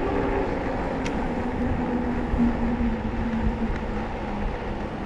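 City street traffic heard from a bicycle: the steady rush of road and passing traffic, with a vehicle engine humming for a few seconds in the middle and a single light click about a second in.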